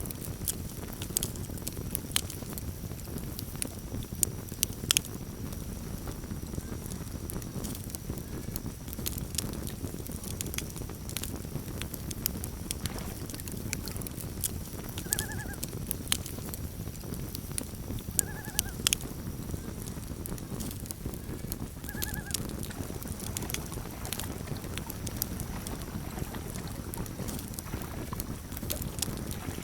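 Campfire crackling and popping over a steady low rumble of the flames. Three short rising-and-falling calls of a common loon come in the middle, about three seconds apart.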